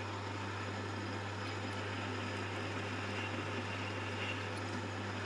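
Metal lathe running steadily with a constant motor hum while boring out a part held in its 3-jaw chuck.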